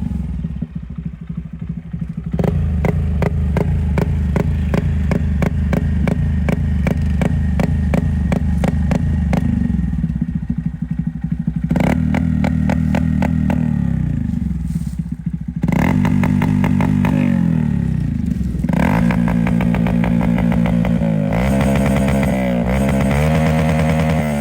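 Honda Monkey 125's single-cylinder engine running through an Akrapovič titanium slip-on exhaust, which keeps the factory catalytic converter. The engine holds a steady note for several seconds, then its pitch rises and falls several times as it is revved.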